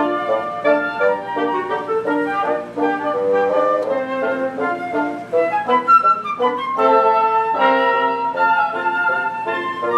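A live orchestra playing, with woodwinds such as flute carrying a busy line of short notes.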